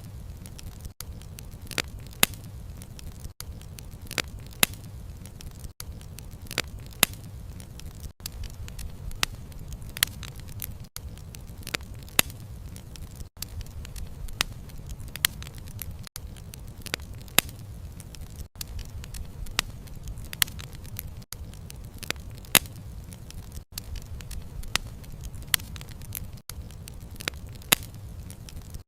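Wood fire burning, with sharp, irregular crackles and pops of the burning wood over a low, steady rumble of the flames.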